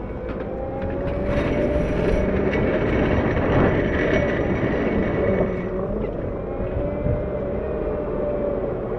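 CAT 908 compact wheel loader's diesel engine running under load, its pitch rising and falling a little as it works. A rougher hiss lies over the engine for about four seconds in the middle.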